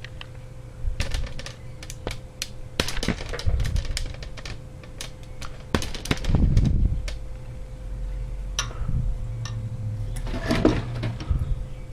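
Irregular clicks, clinks and light knocks of metal engine parts being handled and tapped on the workbench, over a steady low hum.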